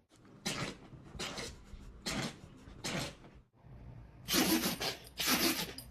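Dog sneezing over and over: a run of about six sharp sneezes roughly a second apart, the last two louder and longer.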